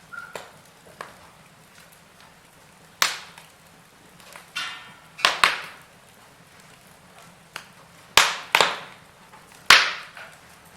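Fire burning wood in a chimney fire, giving off loud, sharp cracks and pops every second or two, with a short hiss about four and a half seconds in.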